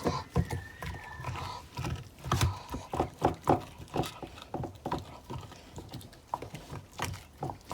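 American Bully dog chewing a raw deer bone, with irregular sharp cracks and crunches a few times a second between wet gnawing.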